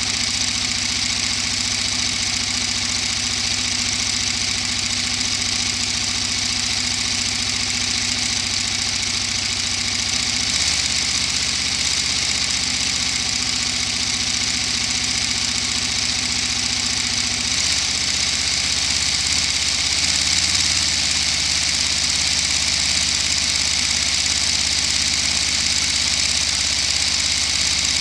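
Lego model of an inline-12 two-stroke diesel engine running continuously, a steady mechanical whir with a low hum underneath. The low hum changes pitch about ten seconds in and again a little past halfway, getting slightly louder after the second change.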